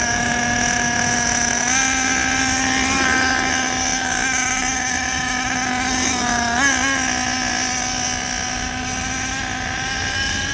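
Small motor of an RC car running with a steady, even whine, its pitch wavering briefly a few times, most noticeably about two-thirds of the way in.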